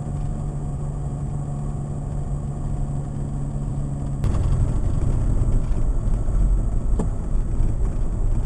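Vehicle engine and road noise while driving, heard from inside the vehicle. About four seconds in it changes abruptly and becomes louder.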